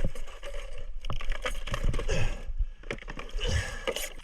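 Underwater river noise: rushing water with many irregular clicks and knocks.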